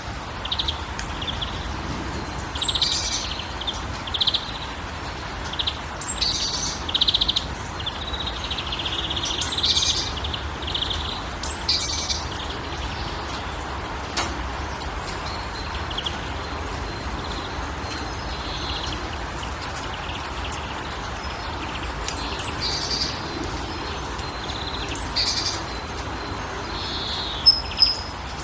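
Several birds chirping and trilling in quick repeated phrases, over a steady low hum and faint background hiss.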